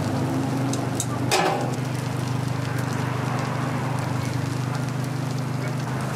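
Takoyaki sizzling in a cast-iron griddle pan, a steady crackling hiss over a constant low mechanical hum. A couple of sharp clicks come a little over a second in.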